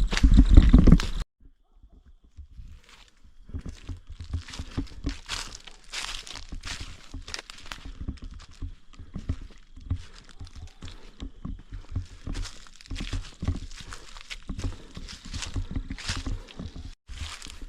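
Footsteps crunching and rustling through dry fallen leaves on a forest trail at a steady walking pace. A loud rushing noise at the very start cuts off abruptly about a second in, and a faint steady high tone runs underneath the steps.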